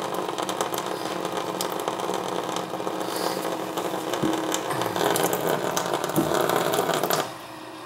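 Handheld power tool running unevenly on a toilet's closet bolt, then stopping abruptly about seven seconds in.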